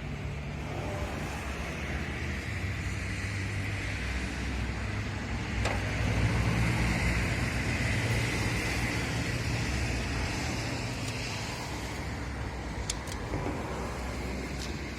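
Car engine running steadily, growing louder a little under halfway through and then easing back, with a few faint clicks near the middle and near the end.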